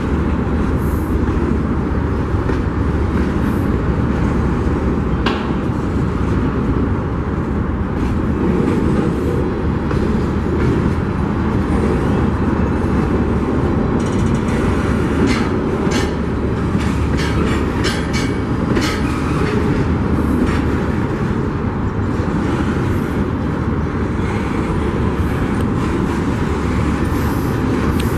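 Union Pacific freight train's cars rolling past with a steady heavy rumble, and a run of sharp wheel clicks and clanks over the rails through the middle stretch.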